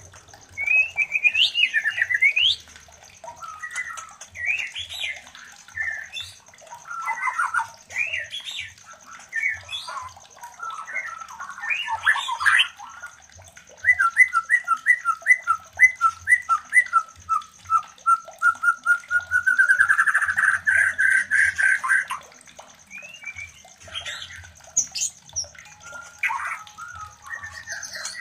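White-rumped shama (murai batu) singing in varied whistled and chirped phrases, with a run of quick descending notes about halfway through and a rising trill a little later; this is the mating song of a breeding shama. A steady high-pitched whine runs underneath.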